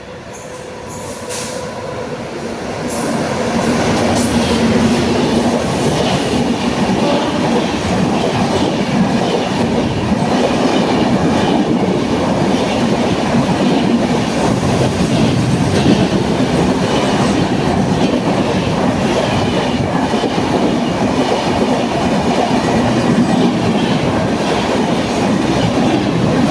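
An express train passing through a station at speed, without stopping. The noise builds over the first few seconds, then holds as a steady loud rush of wheels on rail while the coaches go by.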